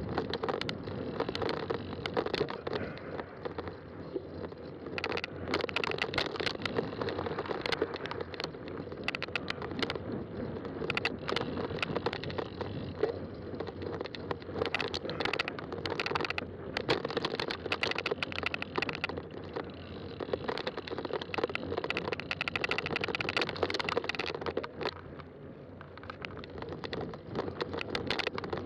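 Fat-tire bike rolling along a trail: steady tyre hum with frequent clicks and rattles as it goes over bumps.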